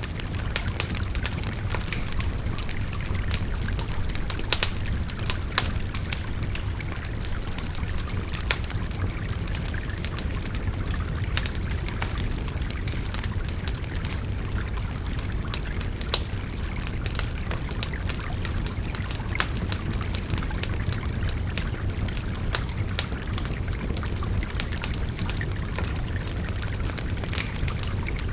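Wood fire crackling with frequent sharp, irregular pops, over the steady rushing and babbling of a river.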